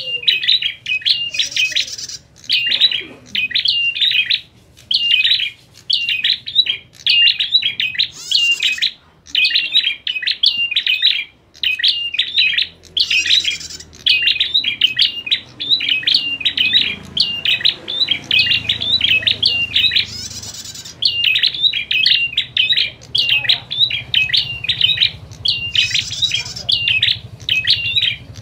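Prinias (prenjak) chattering in an agitated, fighting exchange: fast runs of sharp, repeated chirps with short breaks, and now and then a higher buzzy note.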